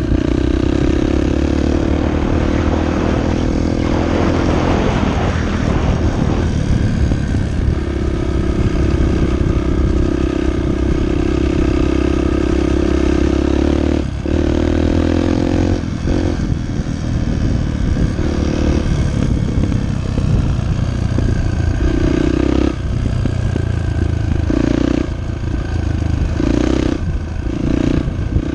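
Dirt bike engine running and revving as the bike is ridden, the pitch rising and falling with the throttle. In the second half the throttle drops off briefly and comes back several times. About four seconds in, a few seconds of rushing noise rise over the engine.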